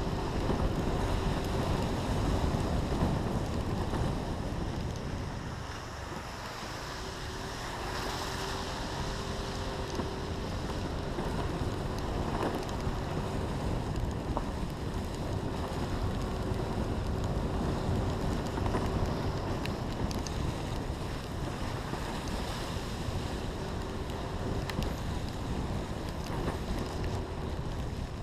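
Wind buffeting a GoPro Hero 3's microphone over a steady wash of noise, with a faint engine hum coming and going.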